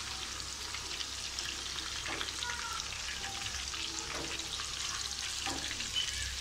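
Chicken gola kababs shallow-frying in hot oil in a pan: a steady sizzle with dense crackling.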